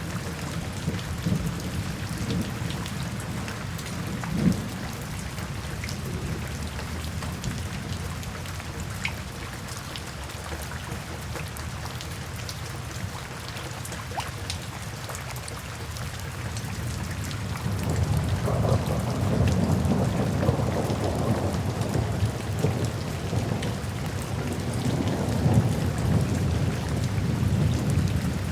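Steady rain falling, with a low rumble of thunder that swells in about two-thirds of the way through and keeps rolling.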